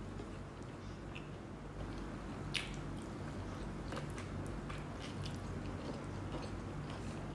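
Close-miked chewing and wet mouth sounds of someone eating rice by hand, with small smacks and clicks. One sharper click comes about two and a half seconds in.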